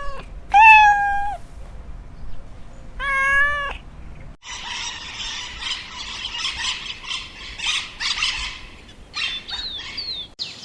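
Domestic cat meowing three times, one call loud and drawn out. About four seconds in there is a cut to a dense, chattering noise, followed near the end by a few short, high chirps.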